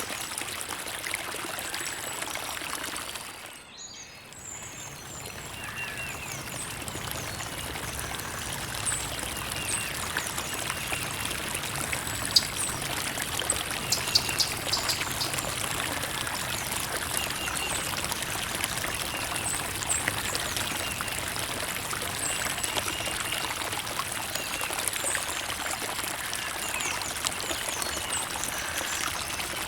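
Creek water trickling and babbling steadily, with faint high bird chirps now and then. The water sound dips briefly about three to four seconds in, then returns.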